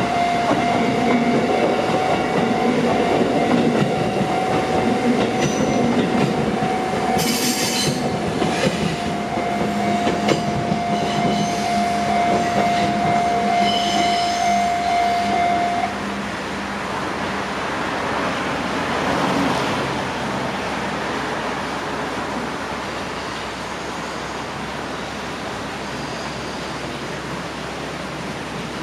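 Electric passenger train on the JR Minobu Line running over a level crossing, wheels rumbling on the rails with brief high squeals and a sharp crack, while the crossing's warning alarm sounds as one steady tone. The alarm stops suddenly about halfway through, and the train noise fades into a steady rushing sound.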